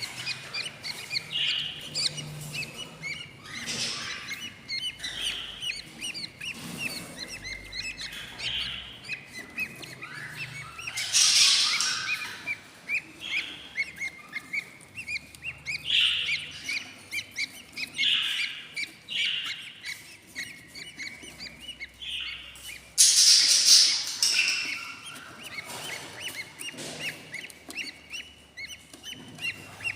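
Eight-day-old budgerigar chicks in a nest box, cheeping in a rapid, continuous chatter of short calls: the begging calls of hungry chicks. Twice, about a third and three quarters of the way through, the calling swells into a louder, noisier burst.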